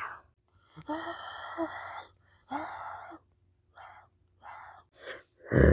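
A person's breathy vocal sounds: two longer ones, then three short ones, with a voice starting near the end.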